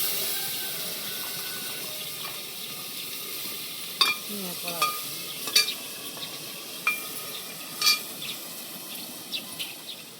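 Food sizzling in hot oil in a pan: loud at first, then slowly easing off. A few sharp clinks of a utensil against the pan come partway through.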